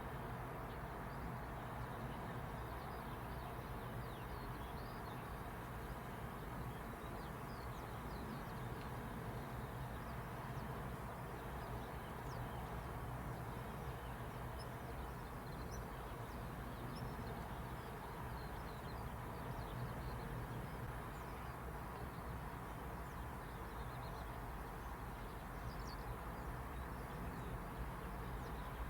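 Faint, scattered high chirps of small birds over a steady low background rumble.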